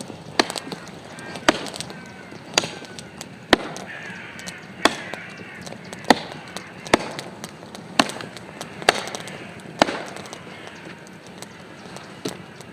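Wood being chopped with sharp, single blows about once a second, ten or so in a row, then two lighter ones near the end.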